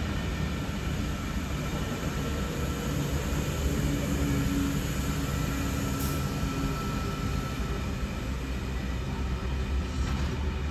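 Sydney Trains double-deck electric train passing, a steady rumble of wheels on the rails with faint humming tones over it.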